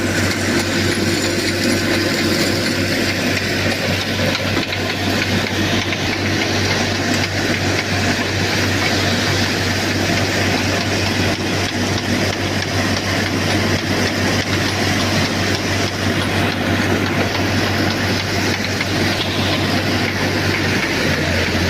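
Tractor engine running steadily, a constant low hum under a broad even noise with no change in pace.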